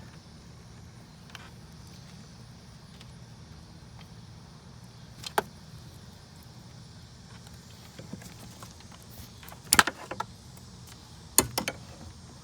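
Sharp clinks and knocks of a hand and tools against parts deep in a BMW engine bay while the crankshaft position sensor is worked out: a single click about five seconds in, a loud cluster near ten seconds, and another cluster shortly before the end, over a steady low hum.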